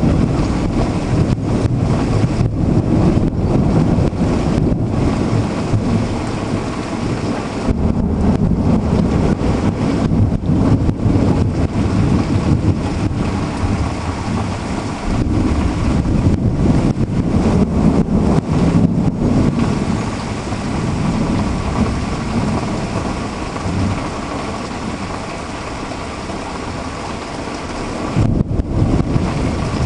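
Heavy rain falling during an intense thunderstorm, with thunder rumbling in long swells that rise and ease several times.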